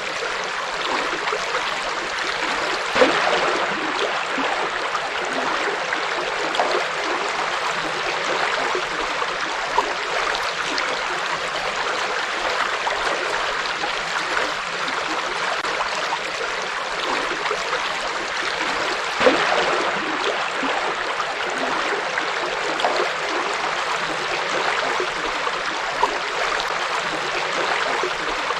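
River water flowing over rocks: a steady rush with small splashes and gurgles, a couple of them a little louder, about 3 seconds in and again a little past the middle.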